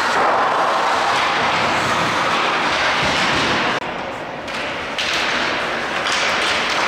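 Steady, loud din of an ice hockey game in an arena: skates on the ice and the crowd blending into one noise. The higher part of the noise drops out for about a second just past the middle.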